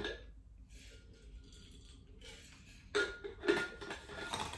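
Chewing and wet mouth sounds of someone eating chunky chicken soup, starting about three seconds in after a quiet stretch.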